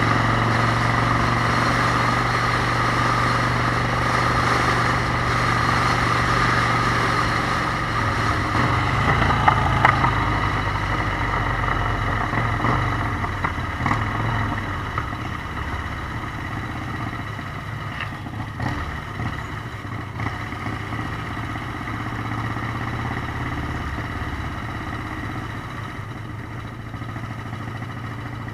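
Motorcycle engine running steadily, with a few short clicks about ten seconds in; the sound slowly gets quieter through the second half.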